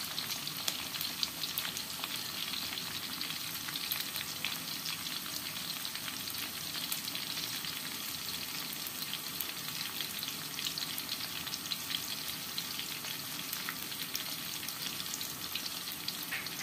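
Sliced garlic and onion frying in hot oil in a wok: a steady sizzle dotted with fine crackles.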